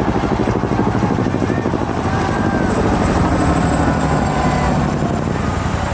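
Helicopter flying, its rotor beating in a rapid, steady chop.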